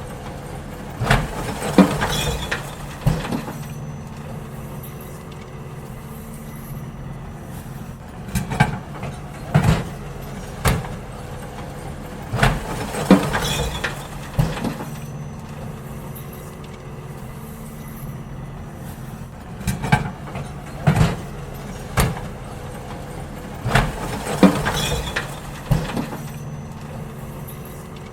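Garbage truck engine running steadily while it empties wheelie bins, with clusters of loud bangs and clatter several times as bins are tipped and knocked out at the back of the truck.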